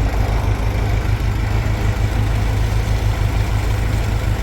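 A heavy engine running steadily at constant speed, a deep, fast, even throb, as from the tractor or mixer driving the concrete pour.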